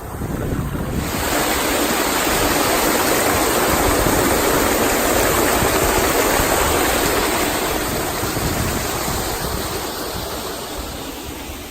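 Water rushing and falling where the stream drops away down the rocky side of the wadi. It grows loud suddenly about a second in and eases off toward the end.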